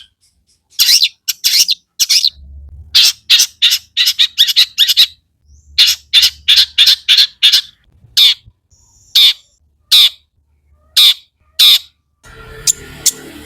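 Long-tailed shrike (cendet) calling in short loud bursts, a few a second with brief gaps between them. A steady background hum and hiss come in near the end.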